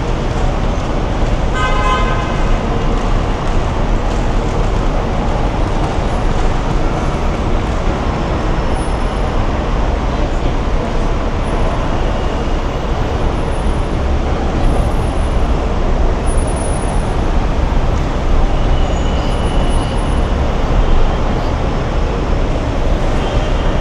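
Steady loud traffic and vehicle noise, with a short pitched tone like a horn about two seconds in.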